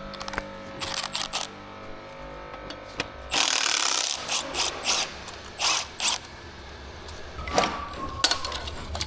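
Ratchet wrench and other hand tools working on the top of an engine, in irregular bursts of clicking, with the longest run of ratcheting about three seconds in.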